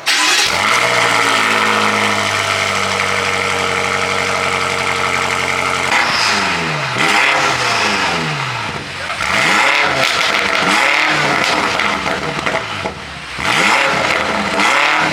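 A tuned car engine starts loud and is held at a steady high rev for about six seconds. It is then revved up and down over and over, pitch rising and falling about once a second.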